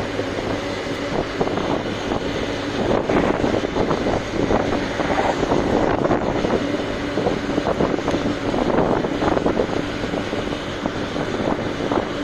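Truck driving along at speed: a steady engine drone under a continuous rushing noise.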